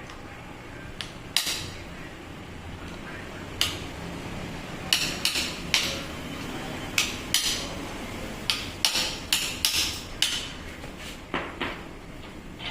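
Irregular sharp metallic taps and clinks, about fifteen, unevenly spaced and thickest in the middle: metal tools and parts knocking against each other while a Makita M8701 rotary hammer is being worked on.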